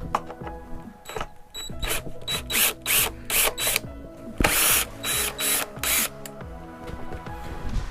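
A tool working the fasteners of a motorcycle's battery cover: about a dozen short rasping bursts, the longest near the middle, over background music.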